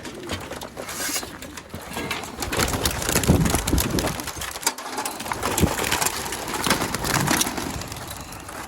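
Flock of young racing pigeons taking off at release, their wings flapping and clapping in a dense, irregular flurry.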